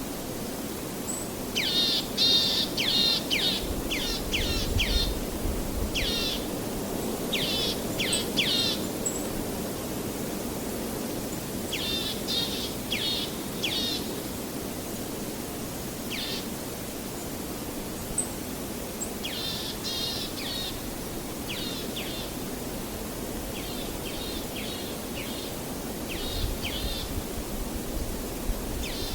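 A songbird calling in short bursts of quick, rapid chirps, the bursts recurring every few seconds over a steady, even rush of waves.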